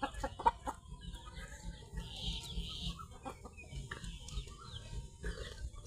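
Chicken clucking in a quick run of calls in the first second, then quieter scattered clucks and small chirps.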